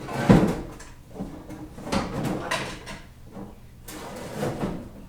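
A series of clunks and rattles from transmission parts and metal objects being handled and set down, the loudest about a third of a second in.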